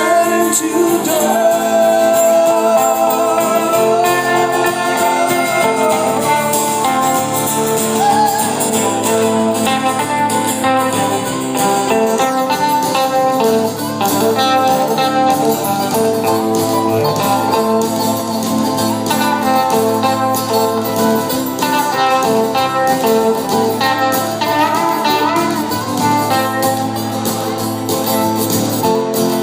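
Folk band music without lyrics: guitars playing, with a wavering lead melody over held chords.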